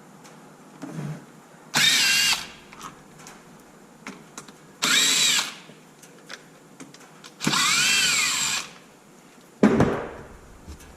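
Cordless power drill/driver spinning out skid-plate bolts in three short bursts, its motor whine rising and falling in pitch, the third burst the longest. A knock follows near the end.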